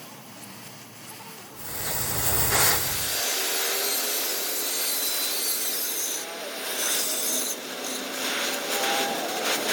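Rough, steady scraping of metal being worked on a truck flywheel, starting about one and a half seconds in.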